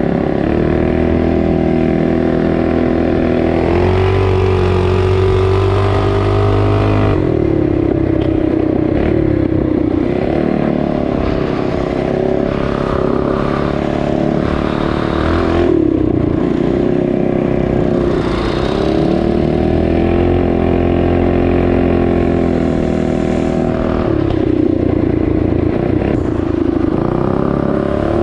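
Small four-stroke single-cylinder trail bike engines running under way. The engine pitch rises and falls several times as the throttle is opened and closed.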